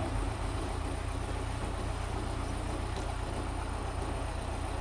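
Mitsubishi bulldozer's diesel engine running steadily with a low, even hum.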